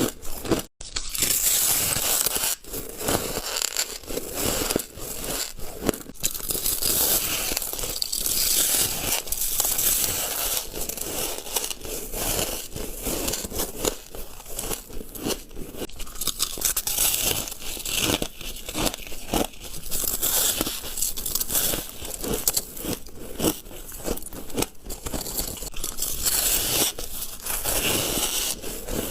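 Ice being bitten and chewed close to the microphone: a dense, irregular crunching and crackling that runs on without pause, broken only by a brief dropout about a second in.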